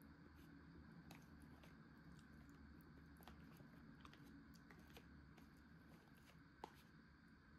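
Faint chewing of soft food, with scattered small clicks and one sharper click near the end.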